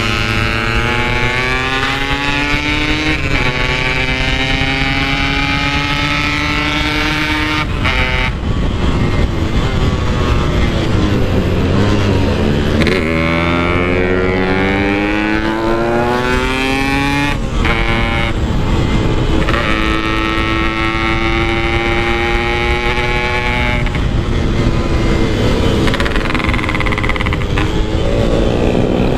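Yamaha RX-King 135 single-cylinder two-stroke engine under hard acceleration, its pitch climbing through each gear and dropping back at every shift, several times over.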